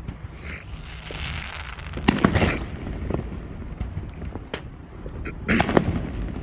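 Fireworks going off: two loud clusters of bangs and crackles, about two seconds in and again about five and a half seconds in, with scattered single pops between them.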